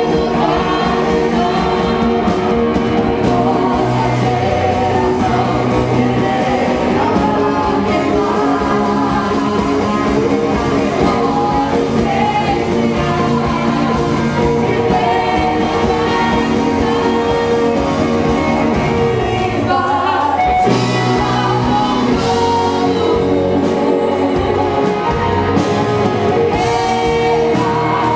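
A worship song sung over a band, loud and steady, with the bass dropping out briefly about two-thirds of the way through.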